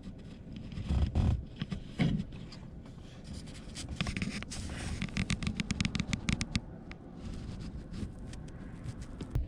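Scraping and rubbing handling noise: two dull thumps about one and two seconds in, then a quick run of scratchy clicks that thins out after a few seconds.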